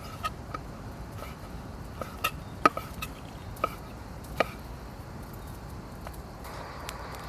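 Irregular sharp knocks of a tool chopping into wood, about ten strikes with a short ring to each, the loudest about two and a half seconds in. They stop a little past the middle, and a faint steady sound follows near the end.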